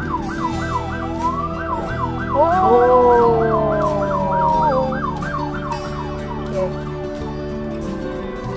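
Emergency vehicle siren in a fast yelp, sweeping up and down about four times a second and fading out about seven seconds in. From about two and a half to five seconds in, a louder tone slides slowly down in pitch over it, above a steady low drone.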